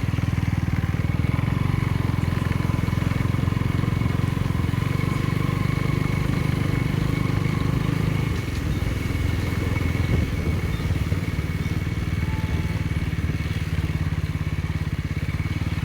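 Motorcycle engine running steadily under way, a continuous low, pulsing drone.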